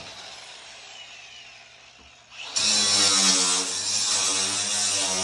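A power tool's motor spins down with a faint falling whine. About two and a half seconds in it starts up again and runs loud, its pitch wavering as it works, likely cutting through sheet-metal duct.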